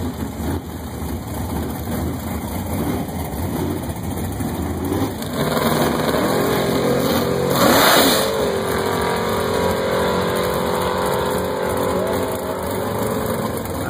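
Car engines running at a drag strip: a low rumble, then a closer engine note about five seconds in. A car drives past close by just before eight seconds, loudest as it passes and dropping in pitch, then runs on steadily at low speed.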